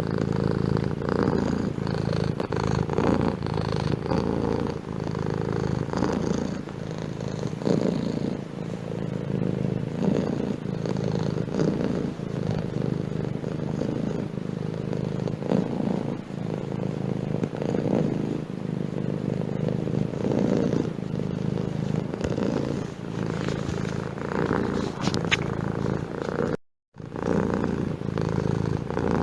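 Domestic cat purring steadily close to the microphone, the rumble swelling and easing in waves about every two seconds. The sound drops out completely for a fraction of a second near the end.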